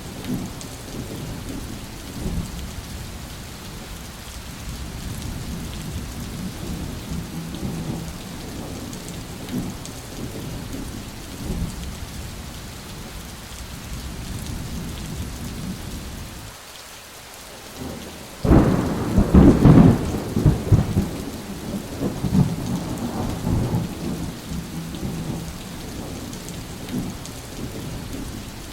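Steady rain with low rolling thunder. About two-thirds of the way through, a loud thunderclap breaks in and rumbles away over several seconds.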